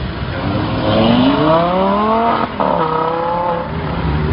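Lamborghini Gallardo's V10 accelerating hard, its engine pitch climbing, broken briefly by an upshift about two and a half seconds in, then climbing again.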